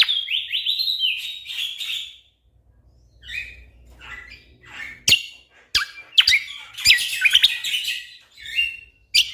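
Cucak kombo song: fast, dense chirping phrases with quick up-and-down notes, a near-quiet gap with a few faint calls in the middle, sharp click notes, then another burst of rapid chirping.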